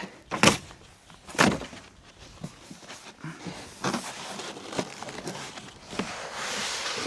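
Knocks and bumps of a heavy server rack LiFePO4 battery being lifted and set into its rack: two loud sharp knocks in the first second and a half, then lighter bumps, and a longer scraping hiss near the end.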